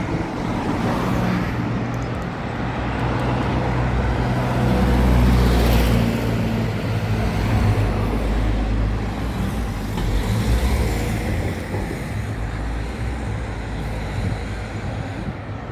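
Motor vehicle engine running close by, with a low steady hum that grows louder about five seconds in and then eases off.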